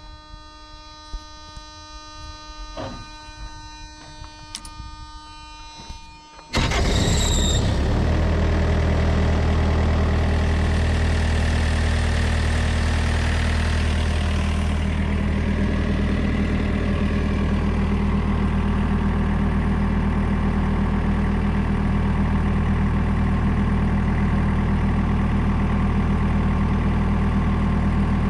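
Background music for the first six seconds or so. Then a diesel engine starts abruptly and settles into a steady, loud idle.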